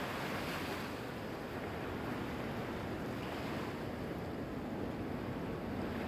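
Ocean surf: a steady rush of waves, swelling a little about half a second in and again around three seconds in.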